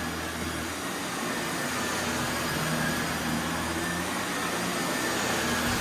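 Vacuum cleaner running steadily: an even motor rush with a low hum and a faint high whine.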